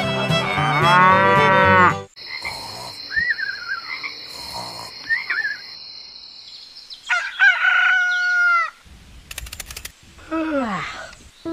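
Background music that cuts off about two seconds in. It gives way to a steady high tone, a few short chirps and a series of farm-animal calls, the strongest of them long falling calls near the end.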